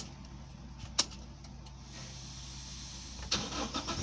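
Toyota Hilux 2.8-litre diesel being started: two sharp clicks a second apart as the ignition is switched on, then from a little over three seconds in the starter cranks and the engine catches.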